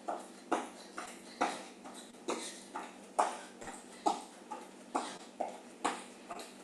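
A person doing jumping jacks in shoes: rhythmic landings and hard breaths, about two a second, with no break.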